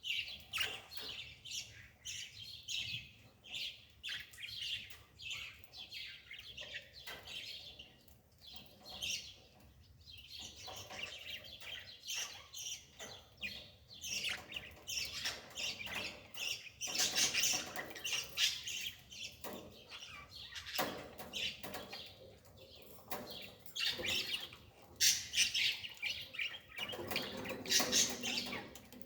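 Small birds chirping busily: many short, high chirps close together, with a lower, pitched call near the end.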